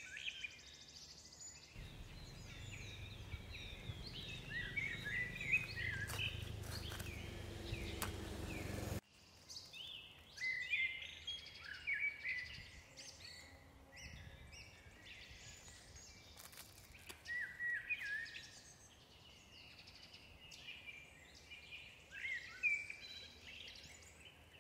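Outdoor birdsong: many short chirping and whistled calls from several birds, overlapping throughout. A low rumble sits under them for the first nine seconds or so and then stops abruptly.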